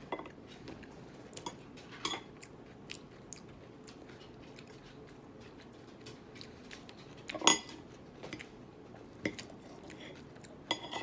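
A person eating salad: quiet chewing with scattered soft clicks of a fork against a bowl, and one louder clink about seven and a half seconds in.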